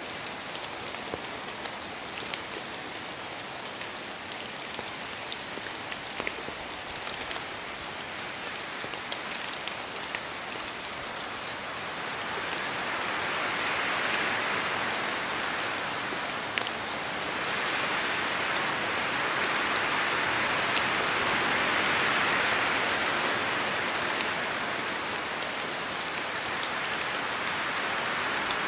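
Steady rain falling, with scattered sharp drop hits. The sound swells twice, after about twelve seconds and again in the second half, like gusts of wind passing through the trees.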